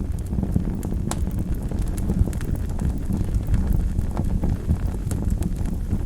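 Wood fire burning in a fireplace: a steady low rumble of the flames with irregular sharp crackles and pops, one of the loudest about a second in.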